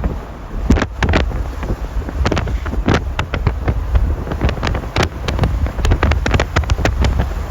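Strong storm wind buffeting the microphone: a heavy, gusty low rumble broken by many irregular sharp cracks and taps.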